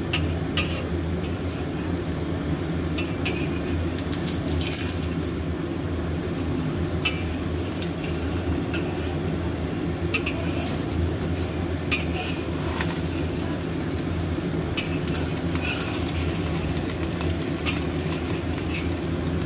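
Egg and shrimp frying in a wok on high heat: scattered sizzling crackles and pops over a steady low hum. The flame is too high, which scorches the underside of the omelette.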